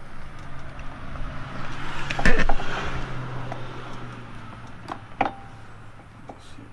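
Hands and tools working the fuel line off a small engine's carburetor: a sharp clattering knock about two seconds in and a few lighter clicks later, over a steady low hum that swells and fades.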